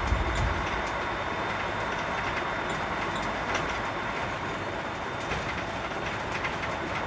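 Steady engine and road noise heard inside a container truck's cab on the move, with scattered light clicks and rattles.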